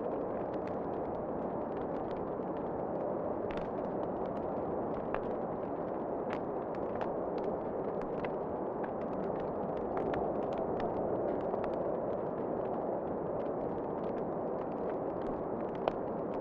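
Wood fire crackling in a fireplace: a steady rumble of flame with scattered sharp pops and snaps.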